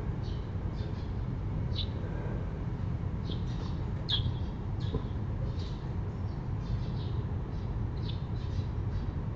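Small birds chirping and squawking in short, repeated calls over a steady low background rumble.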